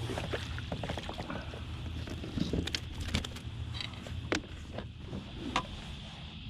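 Scattered knocks, clicks and a few short squeaks of handling gear and a caught fish on a plastic fishing kayak, over a steady low hum and wind hiss.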